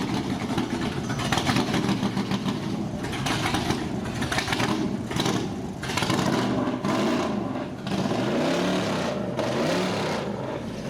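Ford Mustang race car's Boss 302 five-litre V8 being revved in repeated blips, its pitch rising and falling again and again over a lumpy idle.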